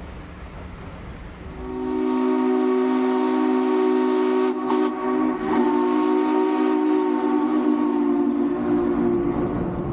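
Steam locomotive's chime whistle sounding one long blast of several tones at once. It starts about a second and a half in, wavers briefly about halfway and fades near the end.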